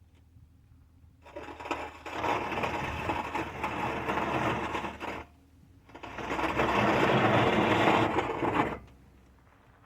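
A rear-mounted bike carrier on a pickup truck scraping and grinding against the ground as the truck's rear drops through a dip. There are two long scrapes, the first about four seconds, the second about three, each starting and stopping abruptly.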